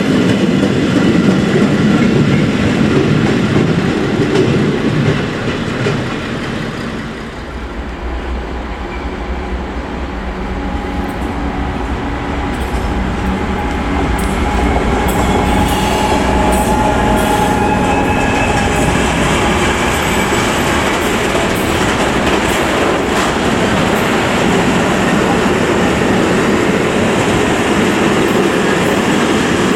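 Freight wagons rolling past close by, dying away within the first several seconds. Then a diesel locomotive approaches with a deep engine rumble and passes, followed by a long train of container wagons rolling and clattering over the rails.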